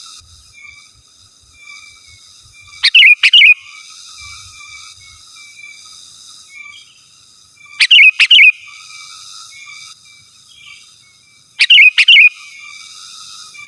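Sooty-headed bulbul (kutilang) calling: three loud bursts of a few quick, sharp notes, about four to five seconds apart, with quieter chattering notes in between.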